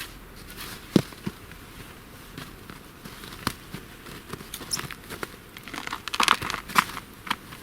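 Small campfire of damp wood crackling as it catches, with scattered sharp pops and a busier run of crackles near the end.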